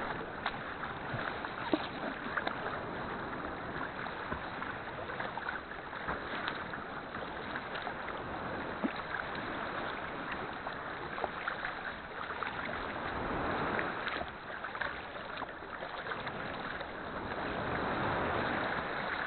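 Sea kayak being paddled: water sloshing and splashing around the hull and paddle blades with small clicks from the strokes, and a louder wash of water for a few seconds near the end as small waves come through.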